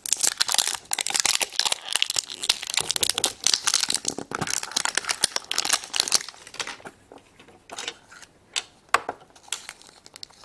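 Wrapper of a surprise egg being crinkled and torn open by hand. The crackling is dense for about six seconds, then thins out to scattered crinkles and clicks.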